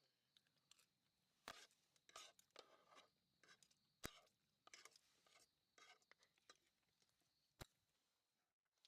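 Near silence with faint, scattered clicks and soft scrapes.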